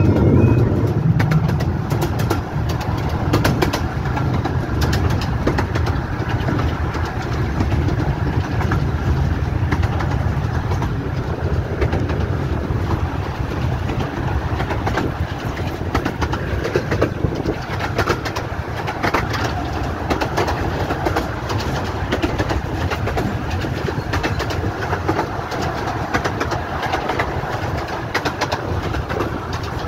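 Miniature 15-inch-gauge train running along the track, heard on board: a steady rumble with frequent clicks and rattles from the wheels and carriages.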